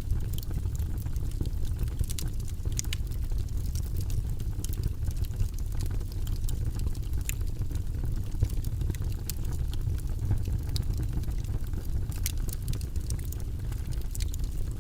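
Wood fire burning in a fireplace: a steady low rumble of flames with frequent irregular sharp crackles and pops from the logs.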